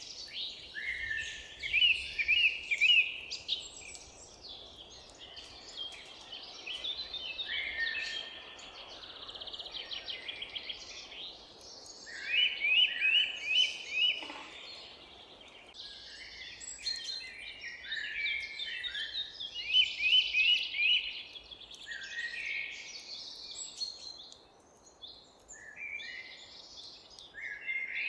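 Several songbirds singing at once, with overlapping chirps and quick repeated trills, loudest in bursts about two, thirteen and twenty seconds in, over faint background hiss.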